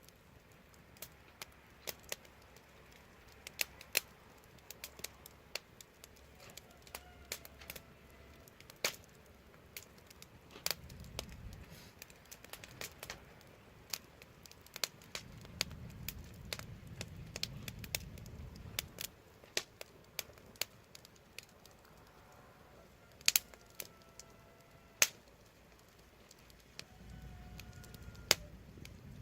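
Wood fire crackling, with sharp irregular pops and snaps throughout and a few faint, brief whistling tones.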